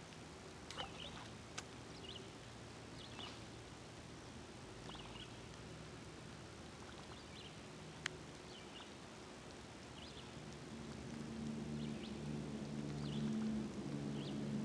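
Outdoor ambience with a bird's short high chirps repeating about once a second and a few faint clicks. A low, steady hum comes up and grows louder over the last few seconds.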